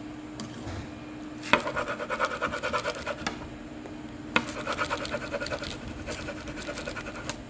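Rapid rhythmic scratching at the table surface, about seven strokes a second, in two bouts: one starting about a second and a half in, the next about four and a half seconds in.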